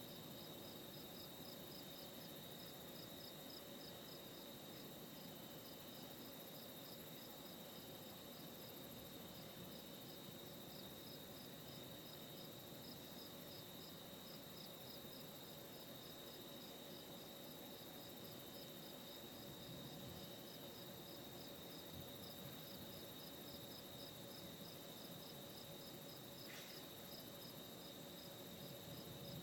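Faint crickets chirping: a steady high trill with a regular pulsed chirp above it.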